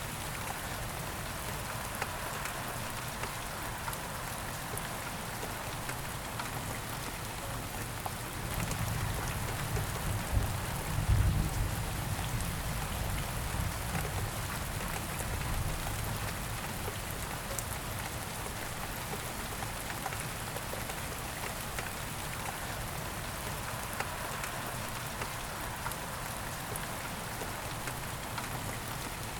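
Steady rain falling, an even hiss with scattered drop ticks. A low rumble swells up about a third of the way in, peaks briefly and fades away.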